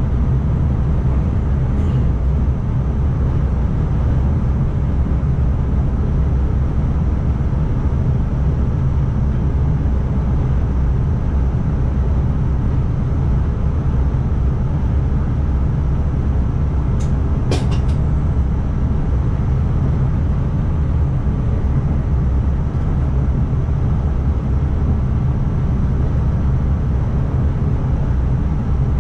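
ICMm electric multiple unit running, heard from inside the driver's cab: a steady low rumble. A few sharp clicks come about two-thirds of the way through.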